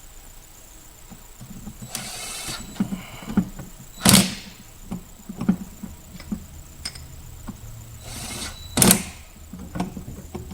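Scattered knocks, clicks and brief rustling from car parts and tools being handled during the install, with two loud sharp clunks about four seconds in and near nine seconds.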